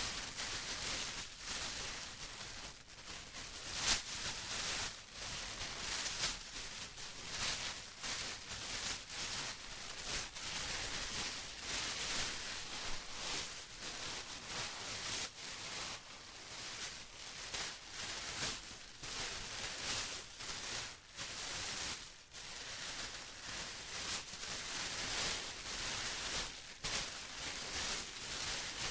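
Plastic being rustled and crinkled in a steady stream of irregular crackles with a hissy, bright edge. The loudness rises and falls, with one sharper crackle about four seconds in.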